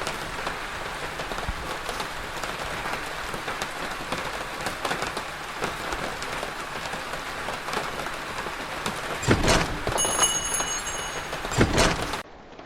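Steady rain falling, with many small drop ticks. About nine seconds in come two louder whooshing swells, with a small bell chiming with high ringing tones between them. Near the end the rain cuts off suddenly.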